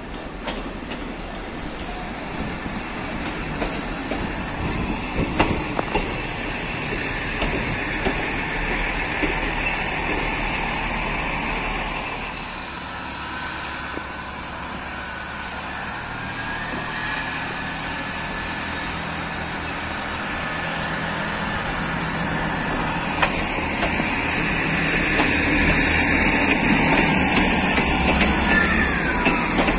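Class 158 diesel multiple unit running slowly into the platform, its engine rumble growing louder as it comes alongside. Thin high squeals from the brakes come in the second half as it slows.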